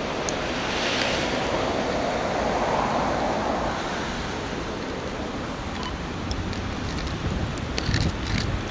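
Freight train running past: a steady rushing rumble of wheels on rail, with short clicks and knocks starting near the end.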